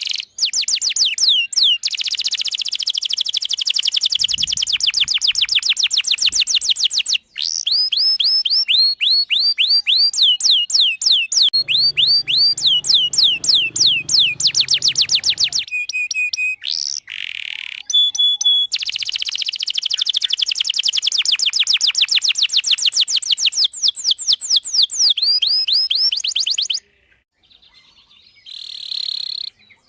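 Canary singing long, fast trills: runs of rapidly repeated high falling notes, changing from one trill to the next, with a few short breaks.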